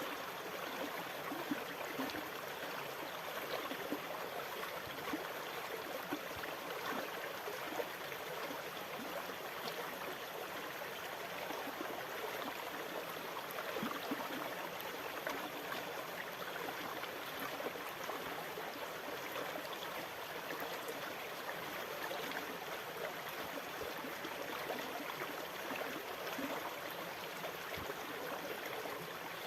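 Sea water washing and trickling in a steady, even flow, with small splashes and no distinct wave swells.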